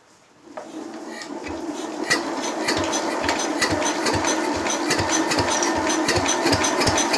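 Lister D single-cylinder stationary engine starting on the fuel in its carburettor bowl: a mechanical sound picks up about half a second in and settles into a steady running beat of about three firing strokes a second.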